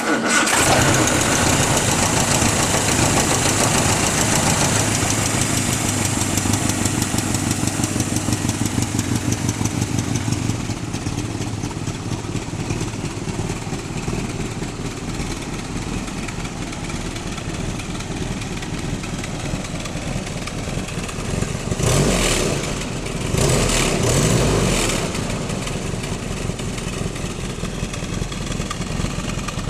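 1960 Triumph TR3A's inline four-cylinder engine on twin SU carburettors idling steadily. The throttle is blipped twice in quick succession about three-quarters of the way through.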